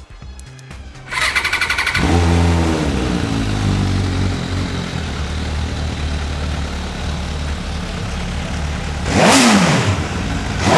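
MV Agusta F4 1000R's inline-four engine on its stock exhaust being started: the starter cranks for about a second, the engine catches with a rev flare that falls back to a steady idle, and a sharp throttle blip rises and falls near the end.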